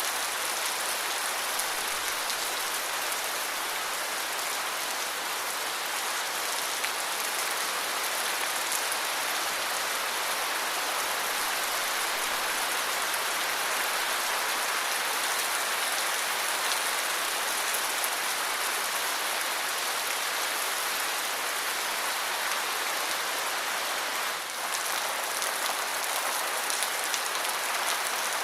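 Steady rain falling: an even hiss of many drops, keeping up without a break.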